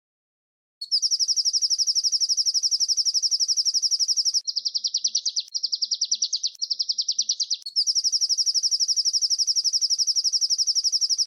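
Small songbird's rapid rolling trill ('tembakan ngerol'), high-pitched, dense and fast, from a masteran recording for training songbirds. It starts about a second in, drops midway into three lower, wavering stretches, then returns to the fast trill and cuts off abruptly.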